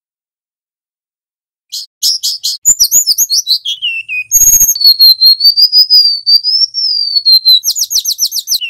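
Golden-bellied gerygone (remetuk laut) singing: after a couple of seconds of silence, a run of quick high notes sliding downward, then a long wavering high whistle, ending in a fast series of short notes. A brief noisy burst comes about four and a half seconds in.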